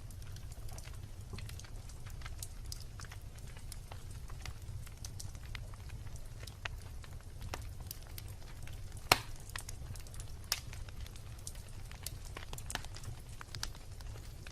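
Wood campfire crackling: scattered sharp pops and snaps over a low steady rumble, with one loud pop about nine seconds in.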